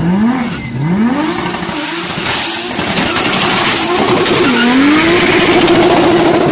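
Car engine revved in quick blips through a loud exhaust, then pulling hard with the pitch climbing, a high whine rising over it.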